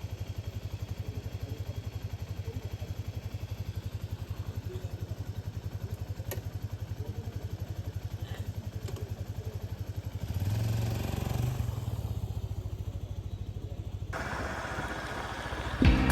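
Kawasaki 250TR's single-cylinder four-stroke engine running with a steady, fast, even beat, growing louder about ten seconds in.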